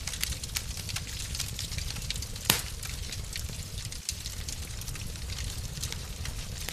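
Wood fire crackling in a fireplace: a low steady rumble with scattered snaps, and one loud pop about two and a half seconds in.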